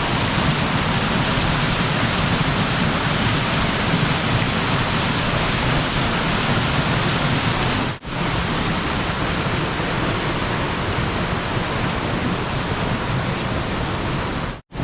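Waterfall: a steady, loud rush of falling water, cutting out briefly about eight seconds in and again just before the end.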